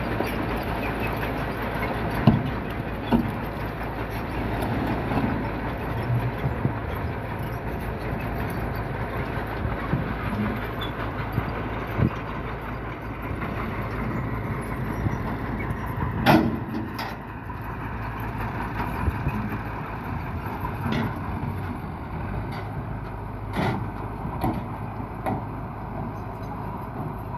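Dump truck engine running steadily, with a number of short sharp knocks and clanks scattered through it.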